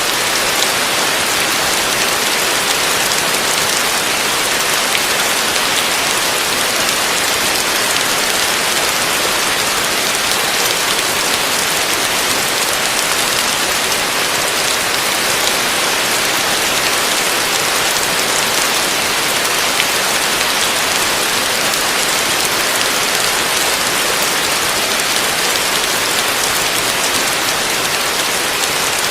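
Heavy rain falling, a steady, dense hiss that holds level throughout, with no thunder.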